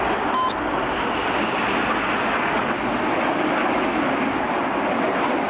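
BAE Hawk T1 jets of the Red Arrows flying a display pass: steady, dense jet engine noise.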